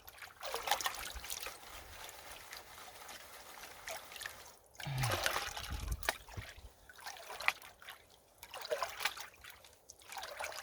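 Water sloshing and trickling out of a gold pan as it is dipped and washed in a creek, in several uneven surges a second or two apart, washing the light gravel off the top while the heavies settle.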